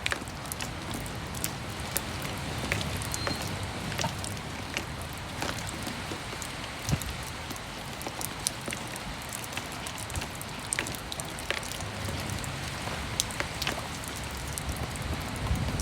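Steady rain falling on a roof, window and the ground, with many individual drops landing in sharp ticks over an even hiss. A low rumble runs underneath and grows a little near the end.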